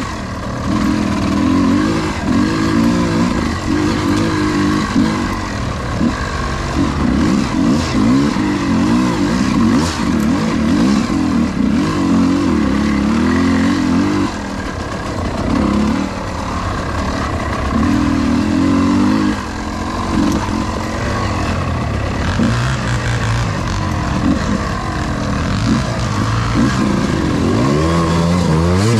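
Dirt bike engine revving hard in bursts of a few seconds, its pitch climbing and falling as it works through mud, with short drops between bursts and a lower running note in the later part.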